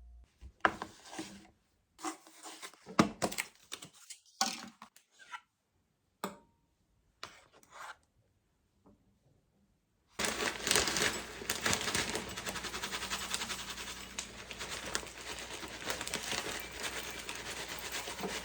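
Rustling, tapping and handling noises of small objects, separated by short silences; about ten seconds in, a steady rushing noise full of small crackles and clicks starts.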